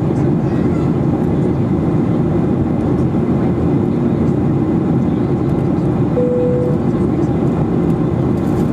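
Steady low rumble of a Boeing 737-800's engines and airflow in flight, unchanging throughout, with a brief single steady tone about six seconds in.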